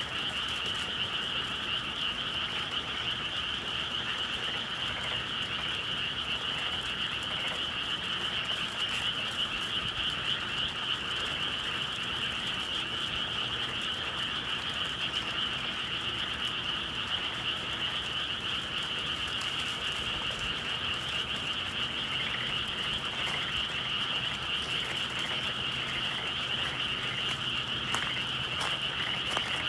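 A dense chorus of many frogs calling at once, steady and unbroken.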